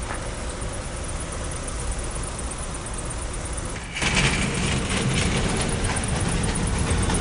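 Mitsubishi Lancer idling, a steady low rumble. About four seconds in, the sound abruptly becomes louder and brighter.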